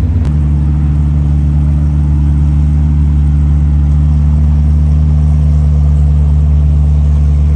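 A car engine idling steadily close by, with an even low hum that holds one pitch throughout.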